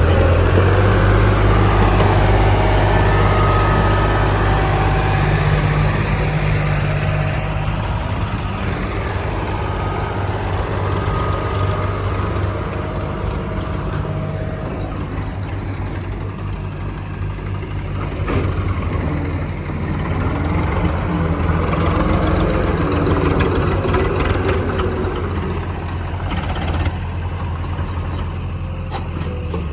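Heavy diesel machinery engine running steadily throughout. Its note swells louder at the start and again about two-thirds of the way through, then eases back.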